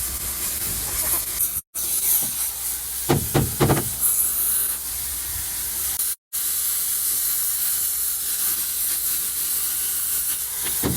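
Oxy-fuel cutting torch hissing steadily as it cuts steel. Two brief dropouts interrupt it, and there are a few loud knocks about three seconds in.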